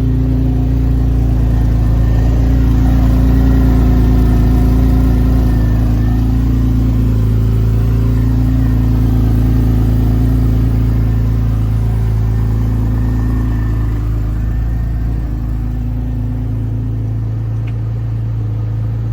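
Turbocharged Porsche engine idling steadily, moments after a cold start; its note eases slightly over the last few seconds.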